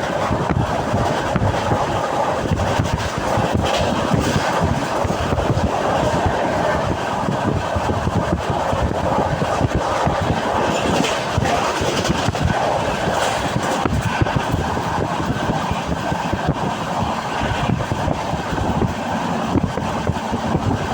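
Passenger train running along the track, heard from aboard a carriage: a steady rumble of wheels on rails with many short clicks and rattles.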